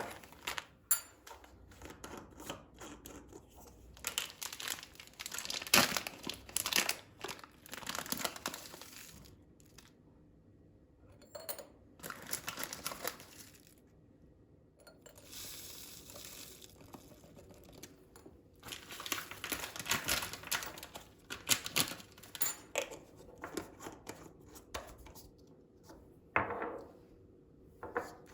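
Packaging crinkling and tearing as it is handled, in irregular bursts with short pauses between.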